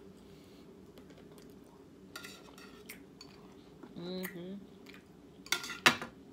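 Close-up eating sounds: chewing, with cutlery clinking against a plate, the loudest clinks coming near the end. A faint steady hum sits underneath.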